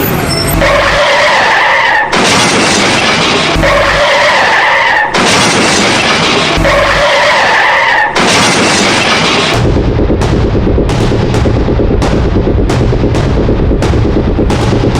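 A loud, noisy sound effect with a steady tone running through it, repeating about every three seconds, then giving way about two-thirds in to music with a steady beat and heavy bass.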